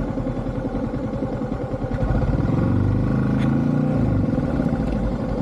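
Yamaha MT-15 V2's single-cylinder engine running under way; about two seconds in it grows louder and rises in pitch as the throttle opens, then eases back after about four seconds.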